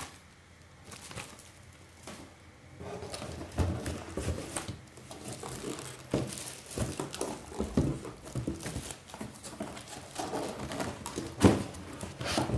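Unboxing handling noises: irregular rustling, taps and clicks of paper and packaging being handled, with a sharper knock near the end.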